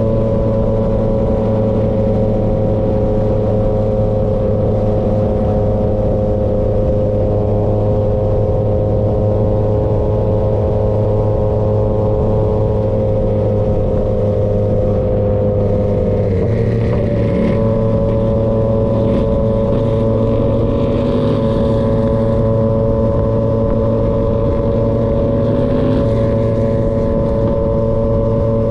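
Yamaha XSR900's inline three-cylinder engine through an SC-Project CRT exhaust, running at steady cruising revs on the road. Its note sags slightly, breaks off about halfway through, picks up again a little higher, and holds steady.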